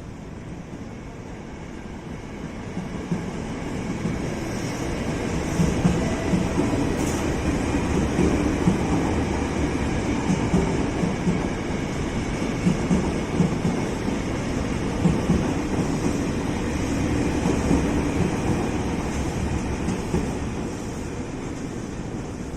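Ex-Tokyo Metro 6000 series electric multiple unit running past on the KRL Commuter Line, its wheels clacking over rail joints. It grows louder over the first few seconds and eases near the end.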